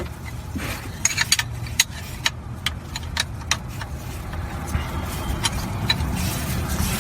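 Sharp metal clicks of a hand tool working on a car's oil drain plug as it is loosened, coming in a quick run in the first half, over a steady low rumble. The plug breaks free with little effort.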